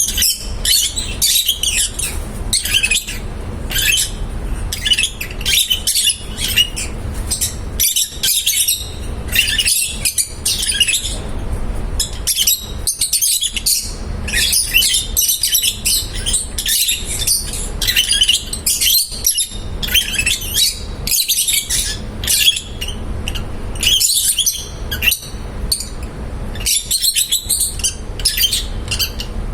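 A group of small pet parrots (love birds) chirping and chattering non-stop, many calls overlapping, over a low steady rumble.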